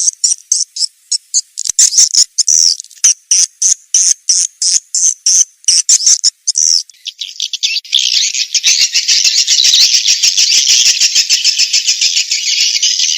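Swiftlet lure call recording of edible-nest swiftlets: rapid high-pitched chirps, several a second, then from about seven seconds in a dense, unbroken twittering chorus.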